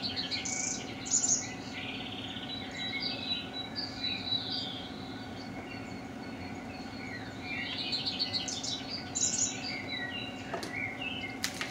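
Songbirds chirping and warbling in bursts over a steady thin high tone and a low hum, with a few sharp clicks near the end.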